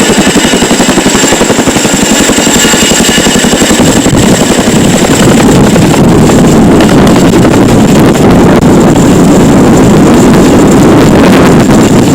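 CH-47 Chinook helicopter running close by: a rapid, even rotor-blade chop at first gives way to a louder, steadier rush of rotor and engine noise from about four seconds in, with a thin high turbine whine over it.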